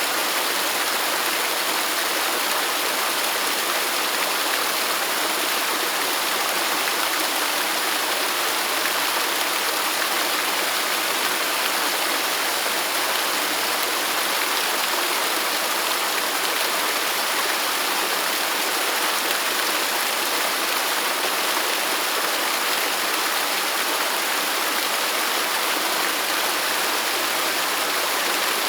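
Waterfall: a steady, unbroken rush of falling and running water, with a lot of hiss and little low rumble.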